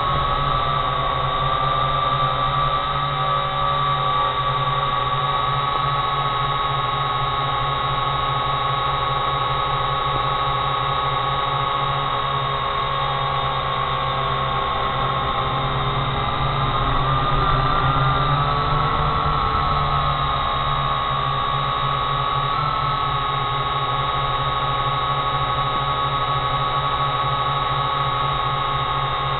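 Quadcopter drone motors and propellers whining steadily, with a high tone that wavers and rises a little about two-thirds of the way through.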